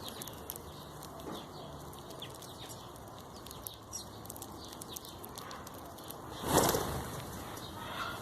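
Birds fluttering: a loud burst of wing-flapping about six and a half seconds in, with small scattered clicks and rustles around it.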